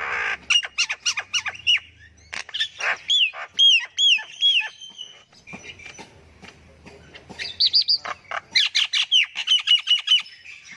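Myna calling: a mix of harsh squawks, clicks and short arching whistled notes, with a quieter spell midway and then a fast run of repeated notes.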